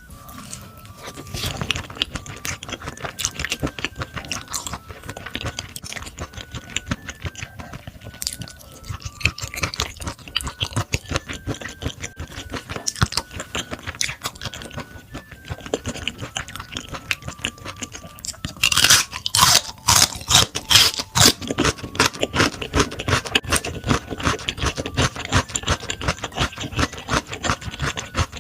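Close-miked mukbang eating: wet chewing and mouth smacking on raw beef brisket, in quick irregular clicks. About two-thirds of the way in there is a louder, sharper stretch of crisp crunching.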